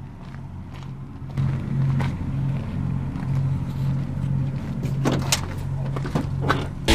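Ford F-250 pickup driving, a steady low engine and road hum that gets louder about a second and a half in. A few sharp clicks or knocks come near the end.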